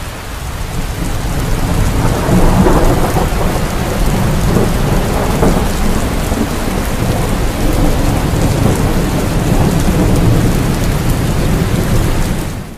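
Steady heavy rain with a low rolling rumble of thunder that swells about two seconds in and carries on, then cuts off at the very end.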